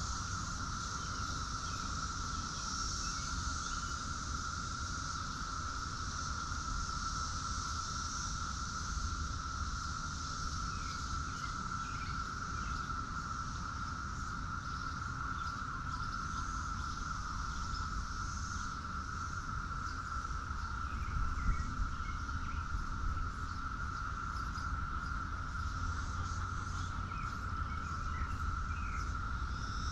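Outdoor ambience dominated by insects droning steadily in one continuous high buzz, with faint short chirps now and then and a low rumble underneath.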